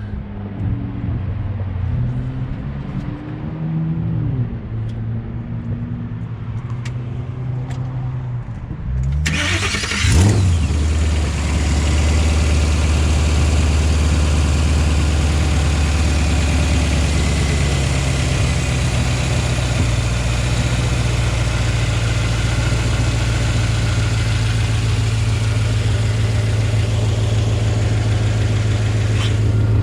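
Twin-turbocharged Ford Mustang Boss 302 5.0-litre V8 starting about nine seconds in, with a quick rise in revs as it catches. It then settles into a steady idle. Before the start, only a quieter low hum is heard.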